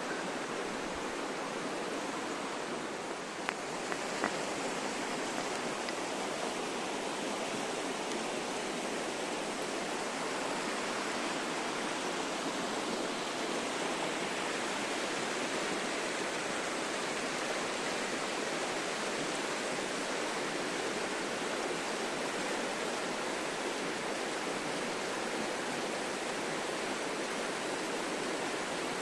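Steady rushing of running water, with a few faint clicks about three to four seconds in.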